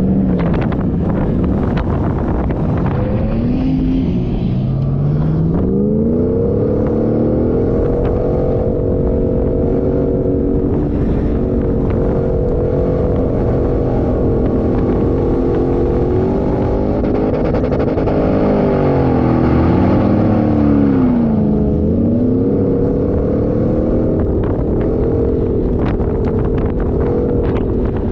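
Off-road 4x4 engine running hard under load, its pitch climbing, holding and then dropping and climbing again twice as the driver works the throttle, over a heavy low rumble of driving noise.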